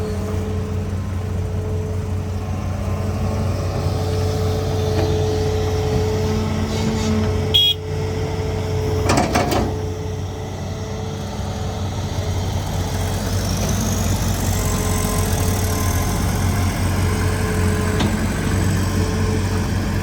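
Hitachi ZAXIS200 excavator's diesel engine running steadily, with sharp knocks about seven and a half seconds in and again around nine seconds. A faint high whine rises and levels off in the second half.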